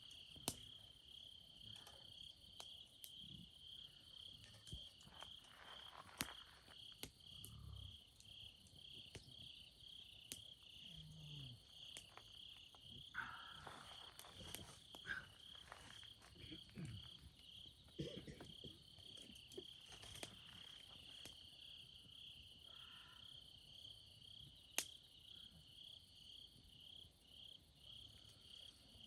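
Faint insects chirping, a steady high pulse repeating about twice a second, like crickets in the autumn night. A few sharp clicks stand out over it.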